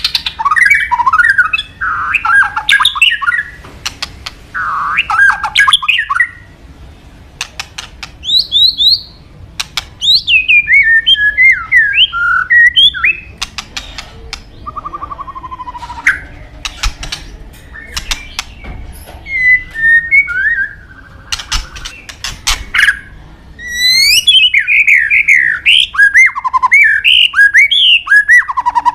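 White-rumped shama (murai batu) singing: bursts of quick, varied whistled notes mixed with sharp clicks, broken by short pauses between phrases, with a long busy run of song near the end.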